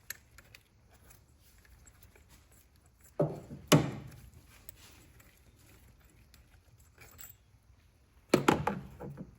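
Two short bursts of knocking and clattering, one about three seconds in and one near the end, as parts and tools are handled during work on the engine.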